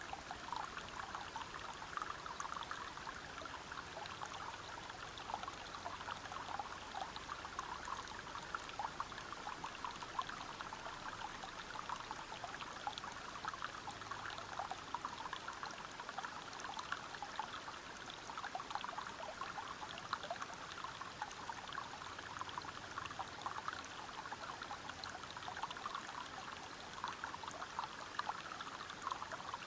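Stream water running and splashing over rocks in a steady babble of many small splashes.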